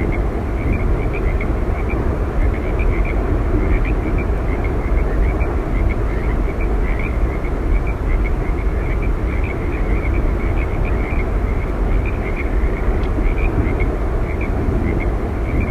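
Steady roar of Yosemite Falls, a continuous rush of falling water, heaviest in the low range. Small high chirps sound over it throughout.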